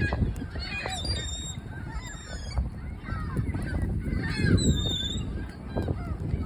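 A flock of gulls calling, many short overlapping squawks, over a steady low rumble.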